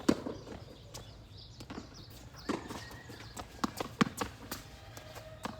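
Tennis rally: irregular sharp knocks of rackets striking the ball and the ball bouncing on the court, with footsteps between.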